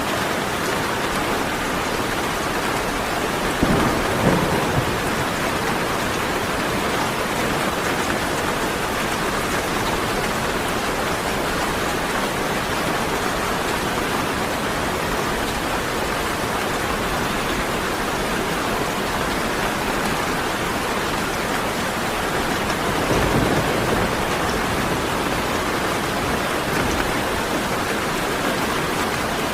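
Steady heavy rain falling, with two short bursts of thunder, one about four seconds in and another about two-thirds of the way through.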